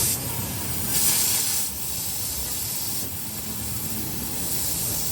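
Hissing, with a louder burst at the very start and another of under a second about a second in, over a low steady rumble.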